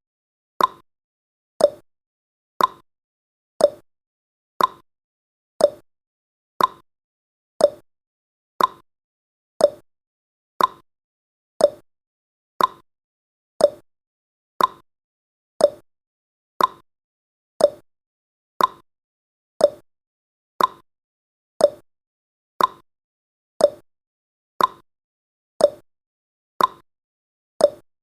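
Clock tick-tock sound effect: a sharp tick about once a second, alternating higher and lower in pitch, keeping steady time for a countdown timer.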